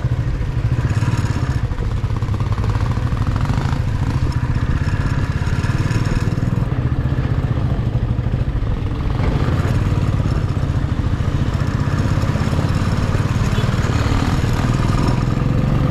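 Motor vehicle engine running steadily with a constant low rumble and road noise, heard from on board.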